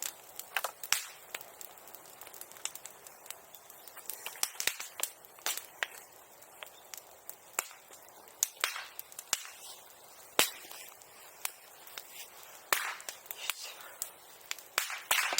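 Bonfire crackling, with irregular sharp pops scattered throughout, a few much louder than the rest.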